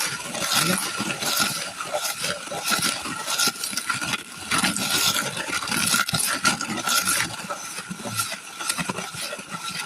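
A thick, wet batch of homemade refractory heat-clay mix being stirred by hand in a container, with continuous irregular scraping strokes.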